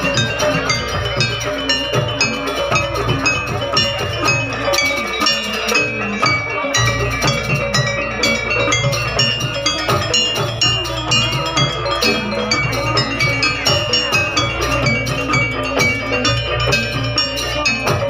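Live music of tuned metal percussion playing quick repeated notes over drums, in the style of a Javanese folk-performance ensemble.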